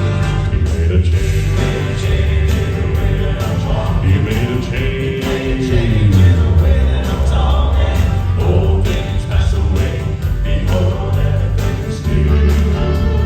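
Southern gospel male vocal quartet singing in harmony over full band accompaniment with a steady beat.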